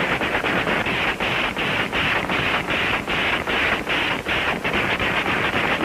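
Engine of an early homemade flying machine running: a harsh, noisy sound broken by frequent brief, uneven dropouts, on an old newsreel soundtrack.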